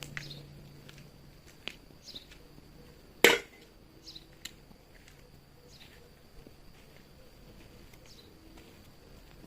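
Wood fire crackling with scattered small pops and one loud snap about three seconds in. Faint short high chirps recur every second or two in the background.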